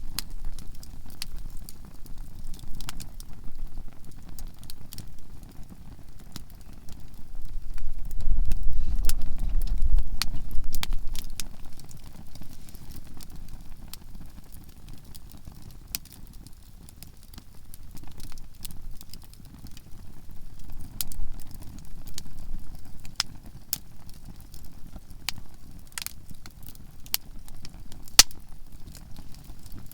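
Conifer firewood burning in a campfire, crackling with frequent sharp pops at irregular intervals. A low rumble runs underneath and swells louder about eight to eleven seconds in.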